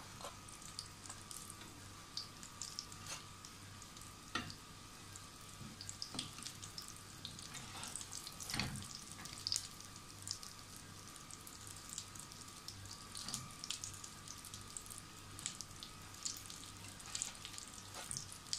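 Breaded chicken keema cutlets shallow-frying in a little oil, a steady crackling sizzle with scattered small pops. A metal spatula clicks against the pan a few times as the cutlets are turned.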